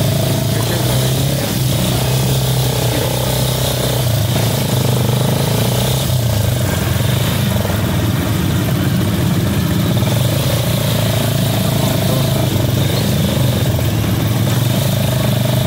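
Mototaxi's motorcycle engine running steadily as it rides along the street, heard from the passenger seat.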